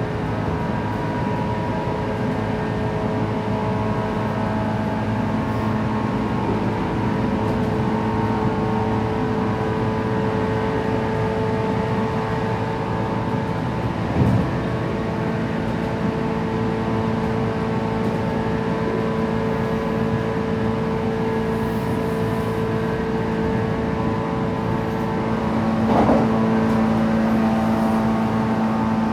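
JR West 117 series electric train heard from inside the carriage running at speed: steady rumble of wheels on rail with the steady whine of the traction motors and gears. A brief knock about halfway through, and the running noise swells near the end.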